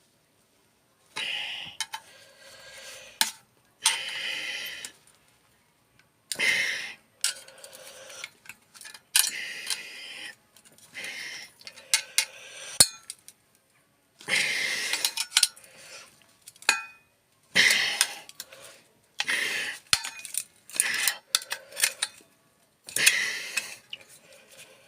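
Sheet-metal parts of a dismantled microwave clinking and scraping in irregular bursts as folded-in joints are pried apart, with a few sharp metallic clicks.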